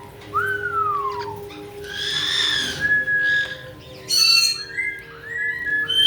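Caique parrots calling: a falling whistle about half a second in, a harsh screech around two seconds in, then held whistles and a sharp squawk about four seconds in, with more whistles near the end.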